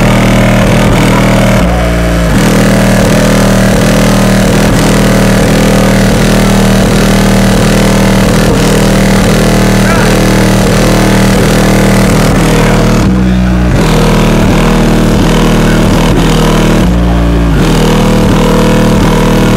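Bass-heavy music played very loud through a car audio system with a wall of four 15-inch Fi BTL N2 subwoofers on two BC5500 amplifiers. A steady, heavy bass runs under a rhythmic beat, with the bass line breaking briefly a few times.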